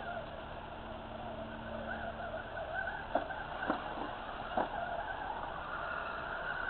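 Electric motor and gears of an RC rock crawler whining, the pitch rising and falling with the throttle. Three sharp knocks come in the middle.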